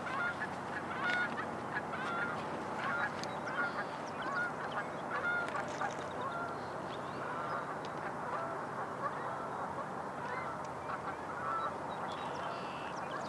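A flock of geese honking: many short, repeated calls, some overlapping, over a steady background hiss.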